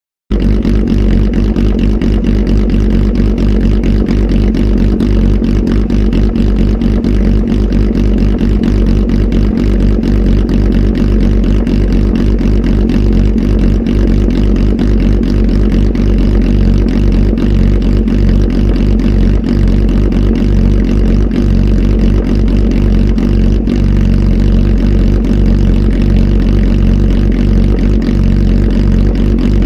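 Kawasaki Z H2 SE's supercharged inline-four running steadily through a full aftermarket exhaust system, with a flash tune, a loud engine note with a fast even pulse and no big revs.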